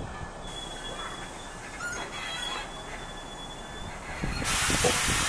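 NJ Transit electric commuter train standing at the station: a thin, steady high-pitched whine over a low rumble, then about four and a half seconds in a loud hiss of air starts up.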